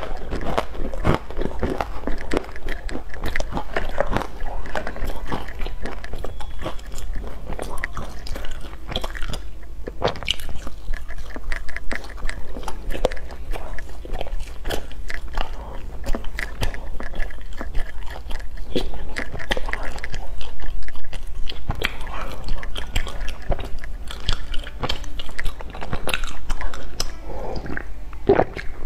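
Close-up mouth sounds of a person biting and chewing filled baked pastries, a dense run of small wet clicks and crackles, mixed with the crumbly crust being torn apart by hand.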